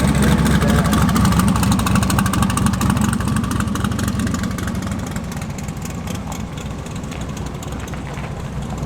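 A car engine running steadily, its sound slowly growing fainter.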